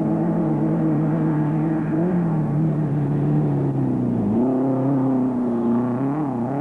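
Off-road race vehicle engine running under load, its revs wavering and then dropping and climbing again a little past halfway.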